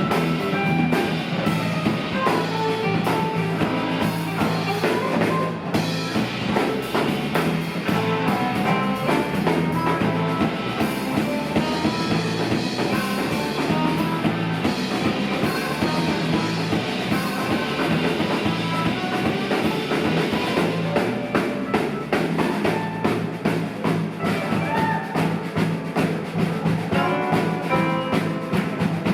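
Live rock band playing an instrumental jam: electric guitar lines over a steady bass line and a full drum kit.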